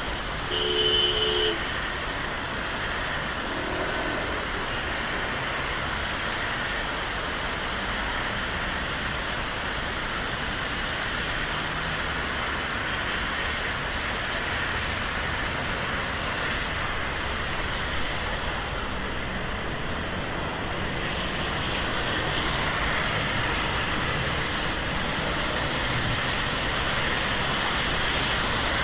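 Steady hiss of rain with city traffic running on wet roads, getting a little louder after about twenty seconds. A brief pitched tone sounds for about a second near the start.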